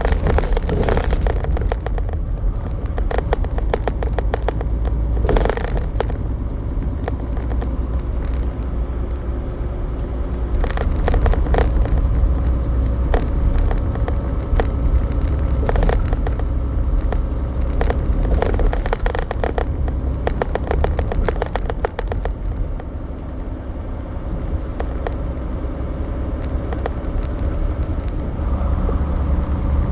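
Semi truck's diesel engine running while driving: a steady low rumble, with clusters of rattles and knocks as it rolls over the road.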